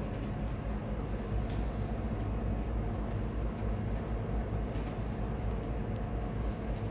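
Steady low rumble of a ship's diesel engine running during berthing manoeuvres, with faint short high chirps now and then.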